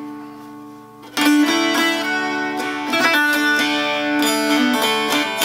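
Solid-cherry hourglass Appalachian dulcimer being played. After a fading ring, a run of plucked notes starts about a second in, with the drone strings sounding steadily underneath.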